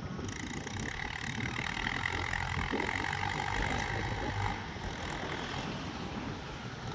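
Mahindra Yuvo 575 45 HP tractor engine running steadily, with a higher whine over it that is louder for the first half and eases off after about four and a half seconds.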